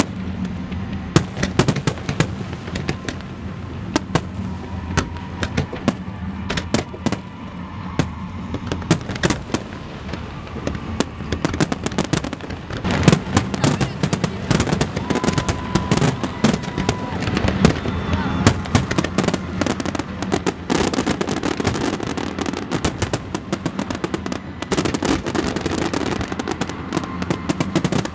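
Aerial fireworks shells bursting in rapid succession with bangs and crackles, growing denser and louder over the last third.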